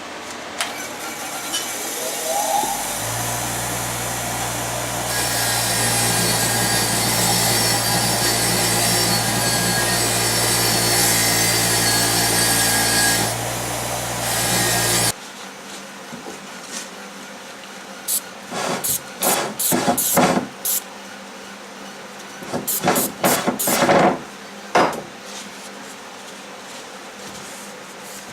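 An electric power tool starts up and runs with a steady hum and a harsh hissing scrape against metal, cleaning the cylinder sleeves, then cuts off suddenly about halfway through. After a pause there is a string of short hand scraping and brushing strokes, cleaning the O-ring groove and sleeve seat in the block.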